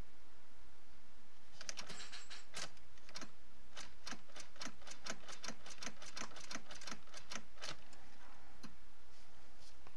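Repeated sharp clicking from a 2005 Subaru Forester 2.0X that won't start, clicking instead of cranking. The clicks come at about four a second for some six seconds starting near two seconds in, then a few scattered clicks near the end.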